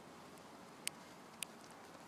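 Two short, sharp clicks about half a second apart, over a faint steady hiss.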